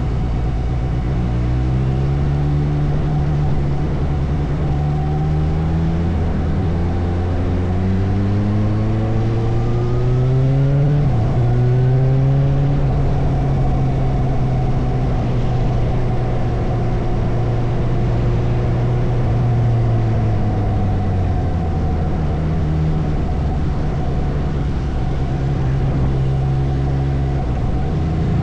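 Motorcycle engine pulling away, its pitch rising for several seconds with a brief dip about eleven seconds in like a gear change. It then holds steady, eases off after about twenty seconds and picks up again near the end, over steady road and wind noise.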